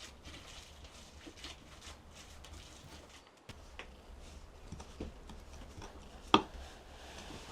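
Scattered soft taps and rustles, with one sharp knock a little past six seconds in.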